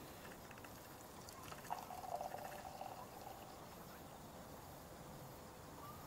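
A short pour of liquid into a container, from about a second and a half in to about three seconds, with a few light clicks at its start.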